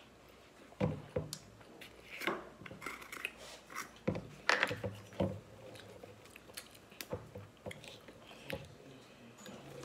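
Children chewing and eating, with scattered light clicks, taps and short scrapes as cups and a plastic milk bottle are handled.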